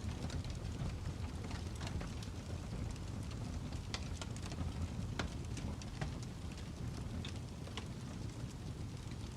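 Fire crackling: scattered irregular pops and snaps over a steady low rumble and hiss, with one of the sharpest pops near the end.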